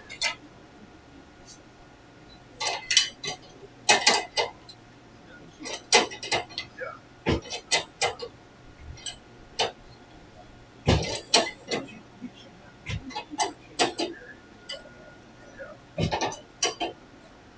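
Metal tools and engine parts clinking and knocking irregularly as they are handled and worked on.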